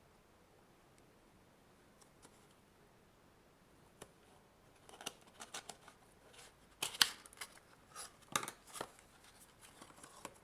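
Packaging of a boxed AC adapter being opened by hand. After a quiet start there is one click, then from about halfway in a string of short, sharp snips and rustles.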